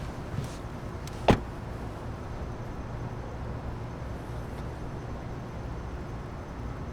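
Steady low rumble with one sharp knock a little over a second in and a fainter click shortly before it.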